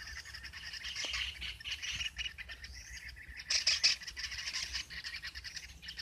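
Birds chirping and calling in quick, high notes, with a louder cluster of calls about three and a half seconds in.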